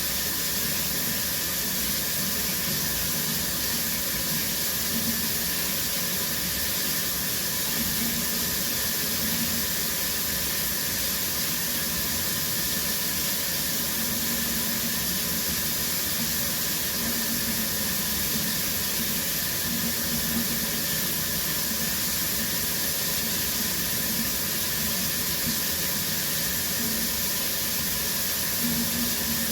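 Shower running: a steady, even hiss of water spray that never lets up.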